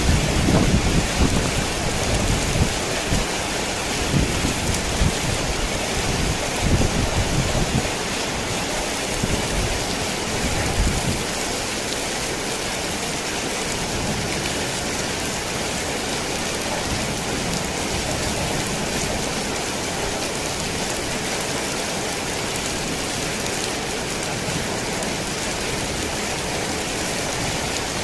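Heavy rain falling steadily on a worn tin roof. Thunder rumbles in rolls over roughly the first ten seconds, then dies away, leaving only the rain.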